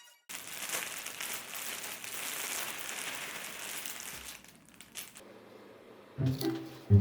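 A crinkling, rustling noise for about four seconds, then quieter. Music with a plucked bass line starts near the end.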